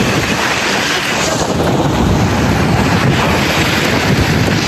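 Strong wind buffeting the microphone in a snowstorm: a loud, steady rushing roar.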